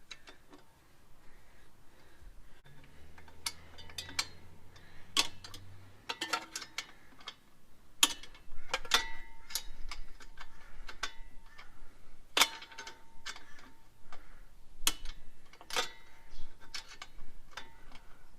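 Irregular sharp metallic knocks and clicks, several ringing briefly, as a Harley FLSTN front fork leg is worked down and out of its triple tree clamps.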